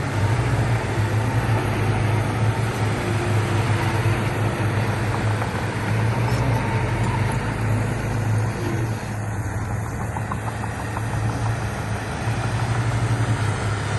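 Diesel engine of heavy earthmoving machinery running steadily with a deep drone. It eases a little about two-thirds of the way through and picks up again near the end.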